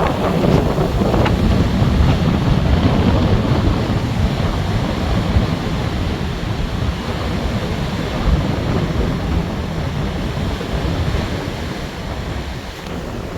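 Strong gusty wind buffeting the microphone over rough sea surf breaking on the shore.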